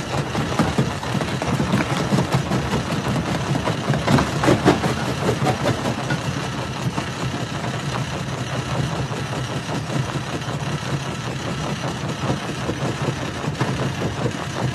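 Rock crusher running with a steady low engine hum and a constant crackle and clatter of stones being crushed, with louder crunches in the first few seconds.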